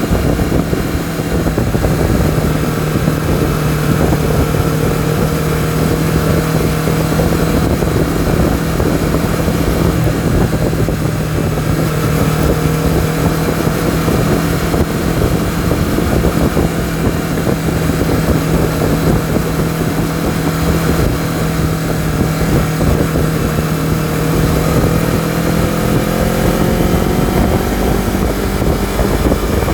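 Honda CBR250RR engine and exhaust running at steady revs on the move, with wind rushing over the microphone. The revs climb a little near the end.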